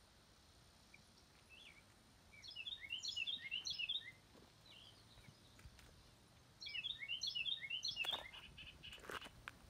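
A small bird singing: two quick bursts of rapid, high chirping notes, each about two seconds long and a few seconds apart. A few sharp clicks follow near the end.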